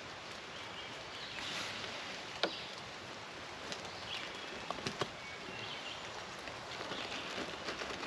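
Quiet woodland ambience on a wet day, with a few faint short bird chirps and a handful of light, sharp taps, one about two and a half seconds in and two close together about five seconds in.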